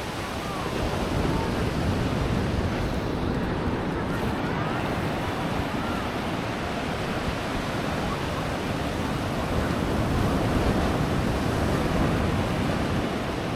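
Ocean surf washing onto a beach, a steady rushing sound that swells and eases, with wind rumbling on the microphone.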